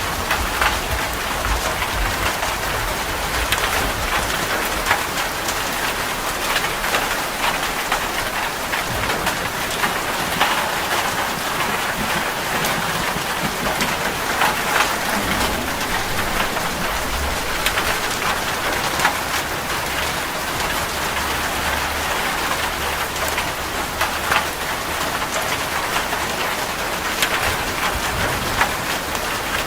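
Steady rain, with many sharp drop hits standing out from the even hiss, and a low rumble that comes and goes underneath.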